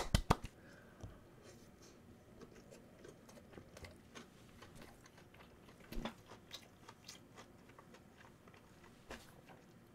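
Faint, close-up chewing of tteokbokki rice cakes, with small scattered mouth clicks and a louder click about six seconds in. A couple of hand claps come at the very start.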